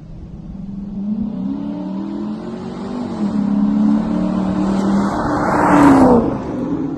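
Chrysler 300's 5.7-litre HEMI V8 with the mufflers deleted and the resonators still in place, accelerating hard with an upshift about three seconds in. It is loudest as it goes by near the end, and its exhaust note then drops in pitch.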